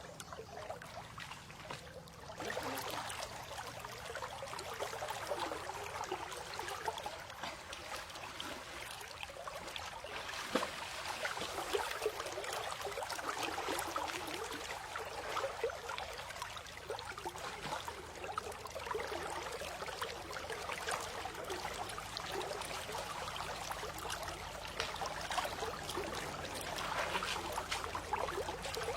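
Running water trickling and splashing, a steady bubbly wash that gets louder about two seconds in.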